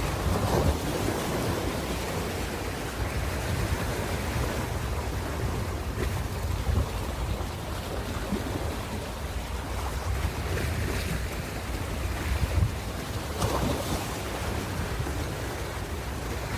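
Ocean surf washing in continuously with a heavy low rumble, swelling briefly louder about half a second in and again around eleven and thirteen seconds.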